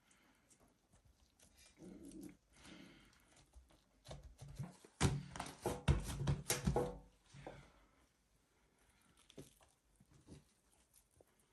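A domestic animal calling several times, loudest in a run of cries about halfway through, mixed with sharp clicks or knocks.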